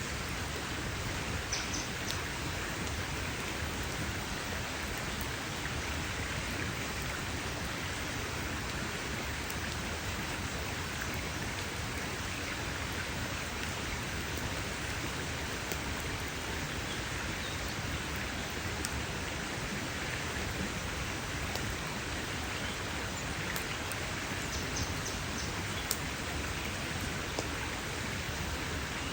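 Wood campfire burning with a steady crackling hiss and scattered sharp pops.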